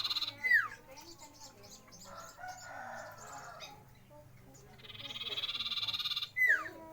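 Common iora (cipow) in song: a buzzy, pulsing trill of about a second and a half ending in a sharp downward whistle, given twice, with softer chattering between. The bird is in full voice.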